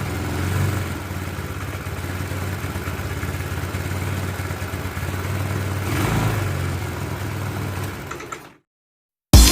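Honda Click scooter's single-cylinder four-stroke engine idling, with brief throttle blips about half a second in and again around six seconds; the sound fades out near the end.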